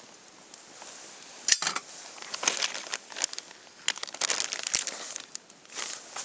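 Crinkling and rustling, coming as several short irregular bursts about a second apart.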